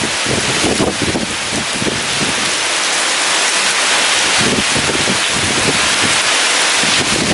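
Heavy rain pouring steadily in a storm, a dense hiss, with strong wind gusting in irregular low surges.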